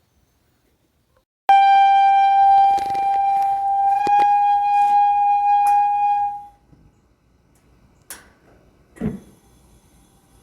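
A steady, high whistle from a Mr. Heater blue-flame vent-free propane heater, the fault the owner is showing. It starts abruptly about a second and a half in and fades out about five seconds later, with a few clicks over it; a dull knock follows, and the whistle starts again near the end.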